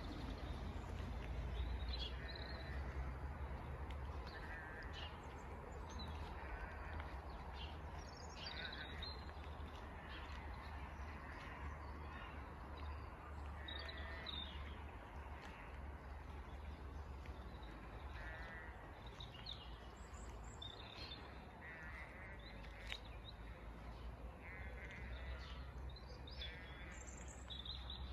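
Birds calling repeatedly, short scattered calls over a steady low rumble.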